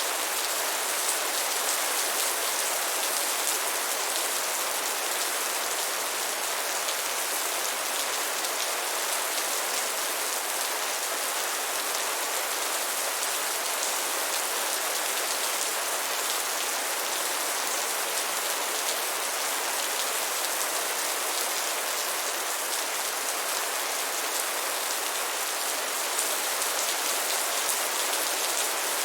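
Steady rain falling on a surface, an even hiss full of fine drop patter that holds at the same level throughout.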